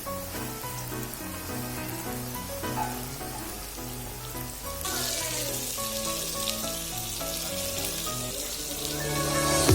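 Background music with a melody, joined about halfway through by the sizzling of batter-coated chicken pieces frying in hot oil.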